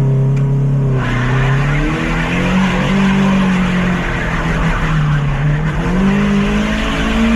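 Lifted Mazda MX-5's four-cylinder engine revving hard under load, its pitch rising and falling. A loud rush of tyre and surface noise comes in about a second in as the car claws up a loose trials section.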